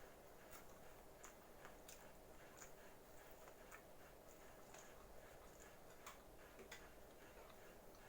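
Near silence broken by faint, irregularly spaced mouth clicks of someone chewing pizza, roughly one a second.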